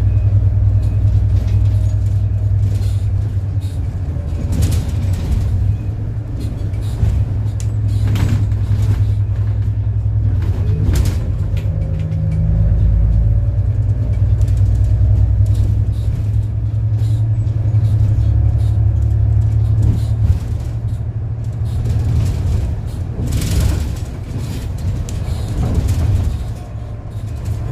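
City bus on the move: a steady low engine and road rumble with faint gear whine that slowly changes pitch and scattered light rattles.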